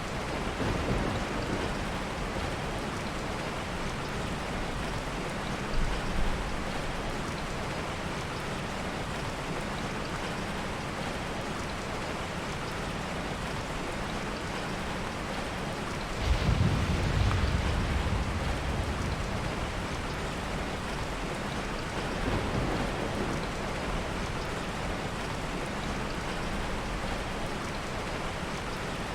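Steady heavy rain, with a low rumble of thunder rising about halfway through and lasting a couple of seconds, and fainter rumbles near the start and later on. Two short sharp pops sound about six seconds in.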